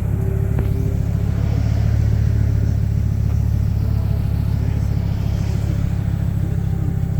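Audi 200's 3B engine, a 2.2-litre turbocharged 20-valve inline five, running steadily, a little louder about two seconds in.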